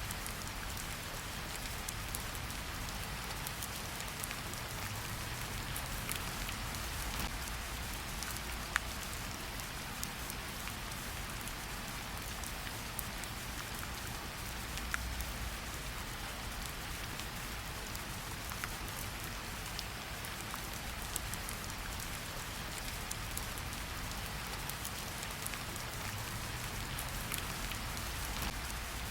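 Steady forest rain: an even hiss of rain falling, with scattered single drops landing close by as sharp little taps.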